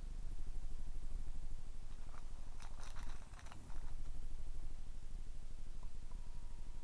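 Small portable air cooler's fan motor running with a steady low, pulsing hum. A cluster of sharp clicks comes about two to three and a half seconds in, and a thin steady whine starts near the end.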